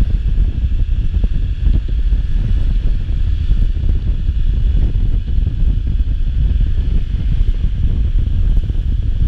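Steady, loud wind buffeting on the microphone, a continuous low rumble with no break.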